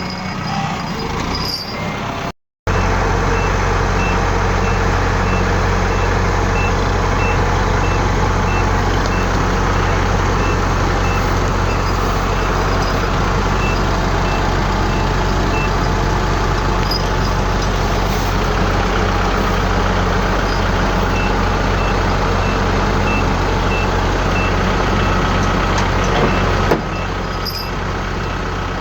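A heavy diesel engine of farm machinery, a combine harvester or tractor, running steadily under load. Over it come quick, high, evenly spaced beeps in several stretches, typical of a reversing alarm. The sound drops out briefly near the start.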